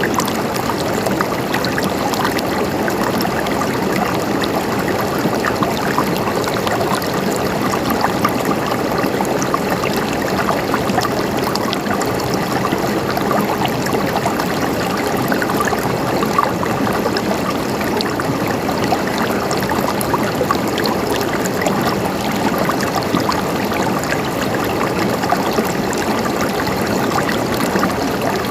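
Running water in a stream, a steady babbling and gurgling rush with small splashes.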